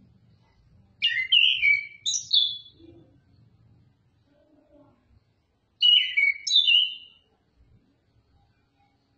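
Oriental magpie-robin singing: two short bursts of quick, loud whistled notes, the first about a second in and the second about six seconds in.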